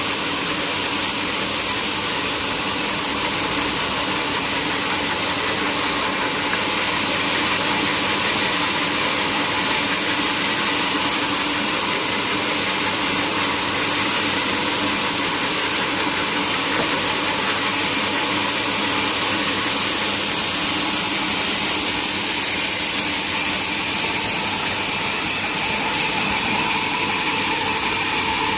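Sawmill machinery running steadily: a constant motor hum under a strong, even hiss from the saw.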